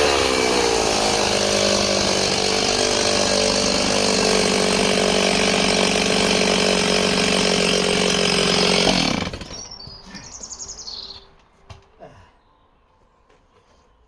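Two-stroke chainsaw cutting through a hard ash round at full throttle, the log right at the limit of the bar, its engine note holding steady under load. About nine seconds in the throttle is released and the engine drops away suddenly, followed by a few faint knocks.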